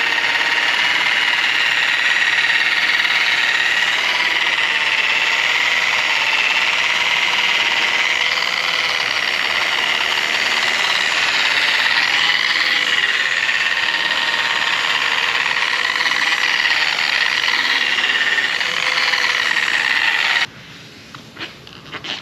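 Power polisher running on the aluminium brightwork of a jet's skin, a steady motor whine that wavers slightly in pitch as the pad is worked over the metal. It cuts off suddenly near the end, leaving a few light clicks.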